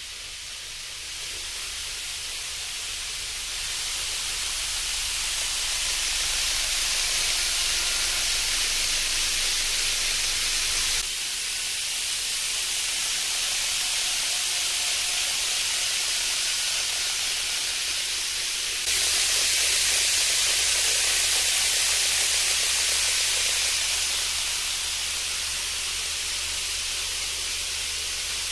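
N gauge model Shinkansen running along the track: a steady hissing rush of wheels with a faint motor whine. The level changes abruptly twice.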